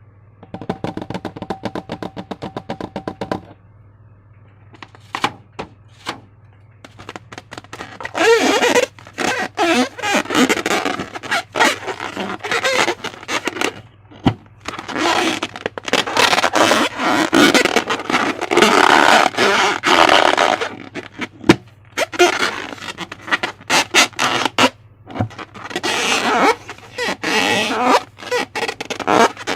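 Slime being squished and stretched by hand, giving bursts of wet, sticky crackling and squelching that come in waves, after a few seconds of rapid clicking at the start. A low steady hum runs underneath.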